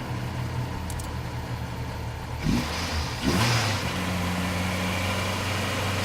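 Subaru Impreza GC8's flat-four boxer engine running at low, steady revs, with two short throttle blips about two and a half and three and a half seconds in, after which it holds a steady, somewhat higher speed.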